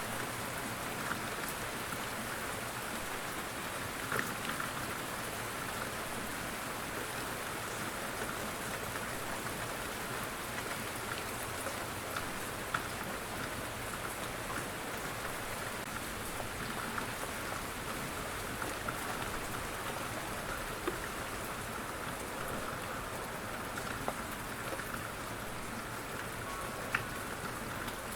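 Steady rain falling and pattering on surfaces, with single drops ticking sharply close by now and then.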